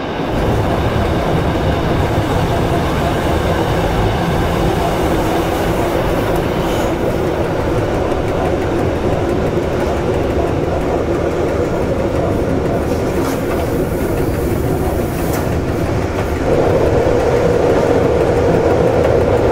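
Rhaetian Railway metre-gauge train running along the track, heard from the front cab: a steady rumble of wheels on rail. About three-quarters of the way through it gets louder, with a droning hum, as the train rolls onto a steel truss bridge.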